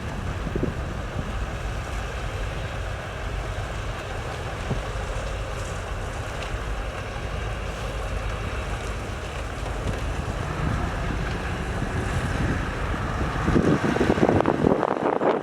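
Heavy diesel earthmoving machinery running with a steady low rumble, with wind on the microphone. It grows louder and rougher near the end.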